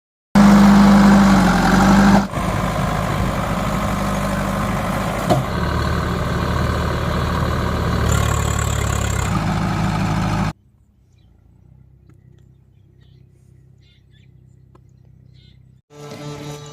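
Heavy diesel machinery engine running steadily, the tractor's or the backhoe loader's, with a sharp break about two seconds in; it cuts off abruptly about ten seconds in, leaving only a faint low hum.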